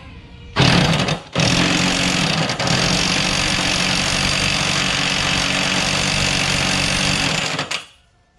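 Cub Cadet Ultima ZT1 zero-turn mower's engine running steadily. It comes in abruptly about half a second in, drops out for a moment, then runs on until it cuts off near the end.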